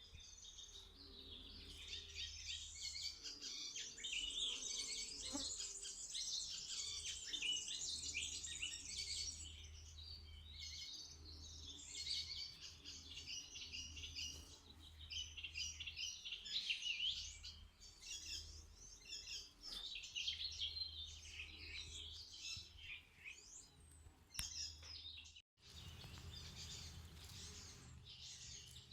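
Several small birds singing and chirping at once in a dense, continuous chorus of quick high notes. The sound cuts out for an instant about three-quarters of the way through, then the chirping resumes.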